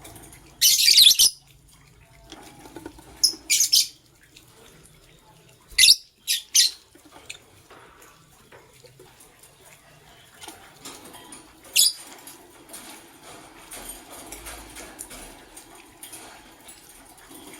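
Lovebirds giving short, shrill chirps: one about a second in, a few between three and seven seconds, and a last one near twelve seconds. Soft rustling and scratching fill the gaps.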